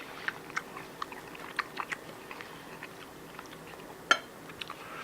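A person chewing food, with irregular small wet clicks and crunches and one sharper click about four seconds in.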